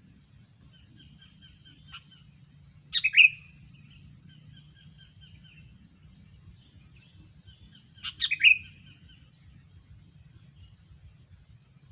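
Sooty-headed bulbul (kutilang) calls: two loud, short bubbly calls, about three seconds in and again about eight seconds in, with softer chattering notes between them, over a steady low rumble.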